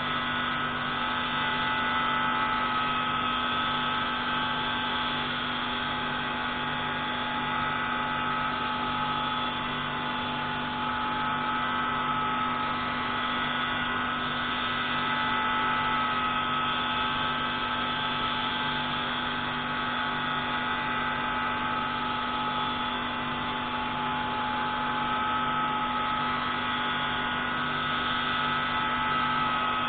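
Pneumatic valve grinding tool running steadily on a marine diesel engine's intake valve: a constant machine whine with a low throb pulsing about once a second.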